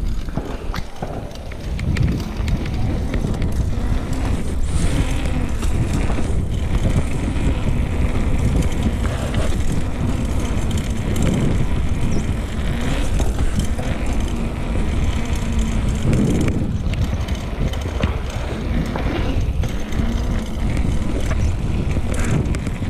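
Mountain bike rolling over a dirt trail: steady tyre noise with frequent small knocks and rattles, and wind buffeting the microphone.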